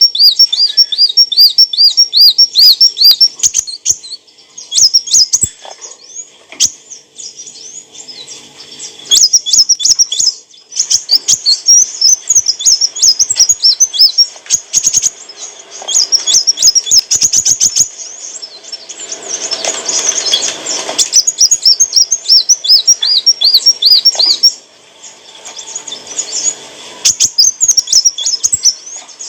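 Sunbird singing: rapid runs of high, sharp repeated chirps in bursts separated by short pauses, with a brief rustling noise about two-thirds of the way through.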